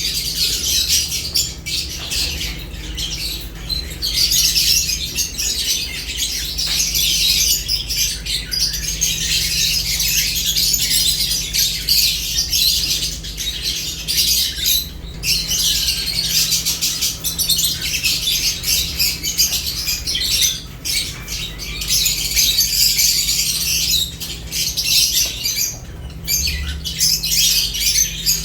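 Lovebirds chirping and chattering in a continuous stream of shrill, rapid calls, broken only by a few brief pauses, over a faint steady low hum.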